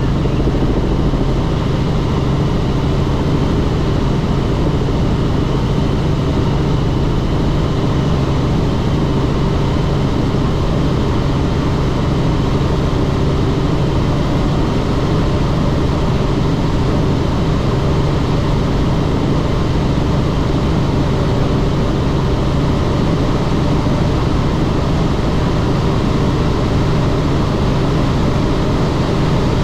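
Helicopter in flight: a steady, loud engine and rotor drone that does not change.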